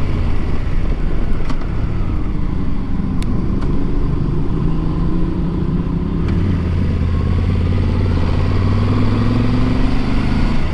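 Motorcycle engine running under way, with rushing air noise. About six seconds in, the engine note rises steadily as the bike accelerates.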